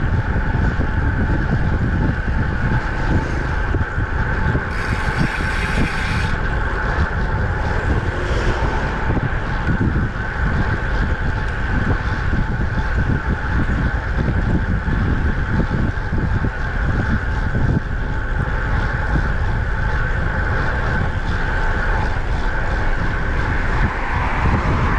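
Wind buffeting the microphone of a moving road bike, with a steady hum from the tyres and bike at speed. A brief hiss comes in about five seconds in and stops a second and a half later.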